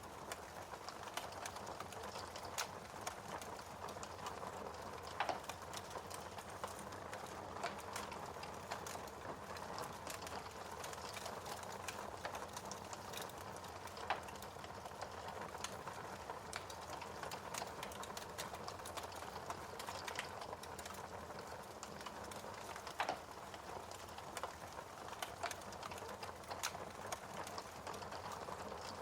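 Wood fire crackling in a fireplace: a steady soft hiss with frequent small pops, and a few louder snaps spread through it.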